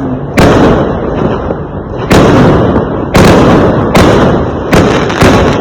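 Fireworks exploding: about six loud bangs at uneven intervals, each trailing off into a rumble that runs into the next.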